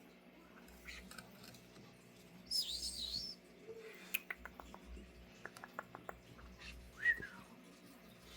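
Pet conure calling: one wavering high-pitched call about two and a half seconds in, then a run of light clicks and a short chirp near the end.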